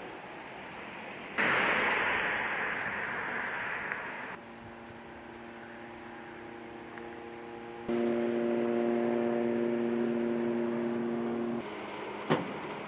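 Steady outdoor rushing noise, then a steady mechanical hum of several even, unchanging tones, in clips cut together sharply; one sharp click near the end.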